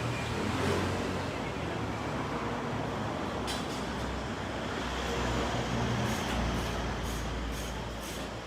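A vehicle engine running steadily, with a sharp click about halfway through and a series of short clicks or taps, about two a second, near the end.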